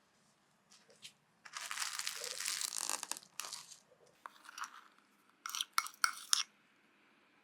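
Food-preparation handling noises: a stretch of scraping or crinkling starting about a second and a half in, then several short, sharp crackles near the end.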